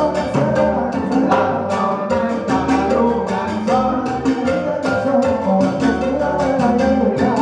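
A band playing Latin music live, with percussion keeping a steady beat under pitched instruments.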